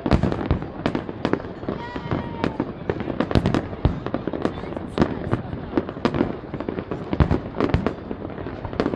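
Aerial fireworks shells bursting in a dense, irregular barrage: many sharp bangs in quick succession with crackling among them.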